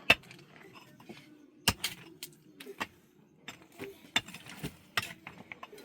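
Irregular sharp clicks and clinks of small hard objects being handled, about a dozen in all, with no steady rhythm.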